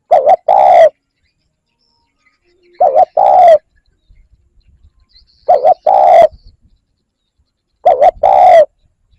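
Spotted dove cooing from a decoy bird: four phrases about every two and a half seconds, each two short notes followed by a longer one.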